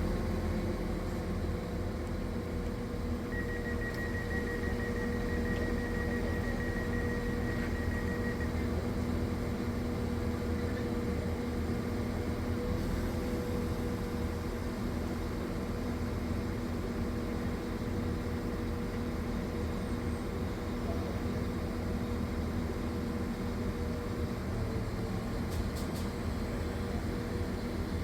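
Northern Class 195 diesel multiple unit running steadily, a constant droning hum with a held mid-pitched tone, and a thin high whine that sounds for about five seconds a few seconds in.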